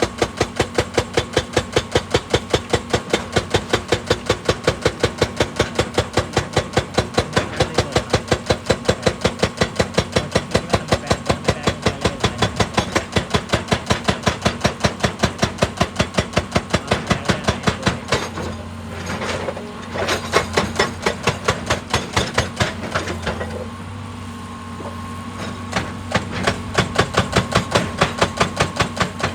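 Excavator-mounted hydraulic breaker hammering rock with rapid, even blows, several a second. It stops for a few seconds partway through, leaving the excavator's engine running steadily, then starts hammering again near the end.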